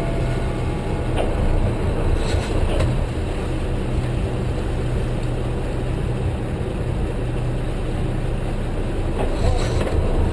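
Boat engine running steadily at low speed, with water noise from the wake. There are a couple of faint knocks, a little over two seconds in and again near the end.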